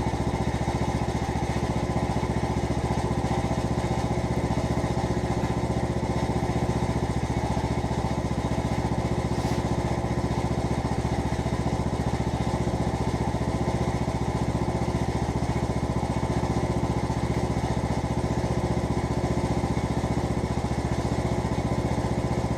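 Riding lawnmower's small engine running steadily at an even speed, just started from cold in freezing weather.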